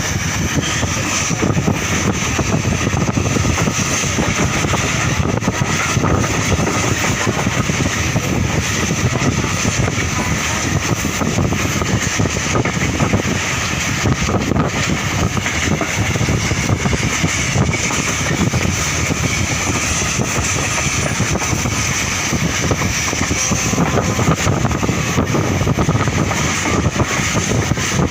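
Steady rumble and rush of a moving passenger train, with wind buffeting the microphone.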